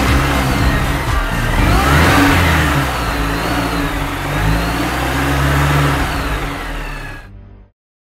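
Car engine running, its pitch rising and falling as it revs, fading out and cutting to silence near the end.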